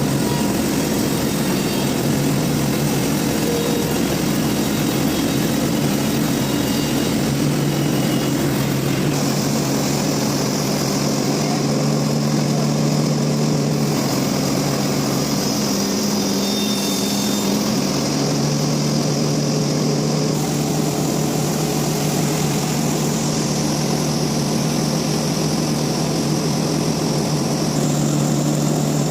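Sawmill machinery running steadily with a low, engine-like drone, and a high hiss that cuts in and out several times.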